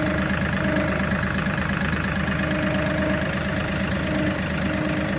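John Deere tractor's diesel engine idling steadily while it warms up after a start, with a higher tone that comes and goes every second or two.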